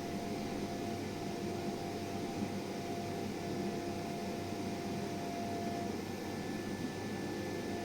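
Dental milling machine running while it mills a PMMA block: a steady hiss with a few constant whining tones. About six seconds in, one tone fades and a higher one takes over.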